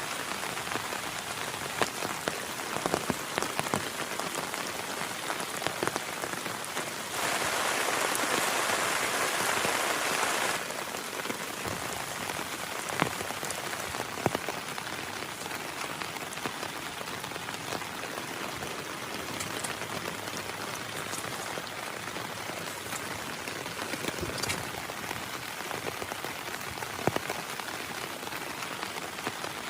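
Heavy rain falling steadily, with many individual drops ticking sharply close by. About seven seconds in, the rain grows louder in a denser wash for about three seconds, then settles back to its steady level.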